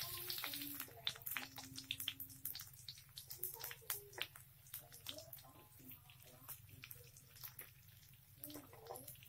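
Sliced onion and spring onion frying in hot oil in a wok: a hiss in the first second, then scattered crackles and pops of the oil.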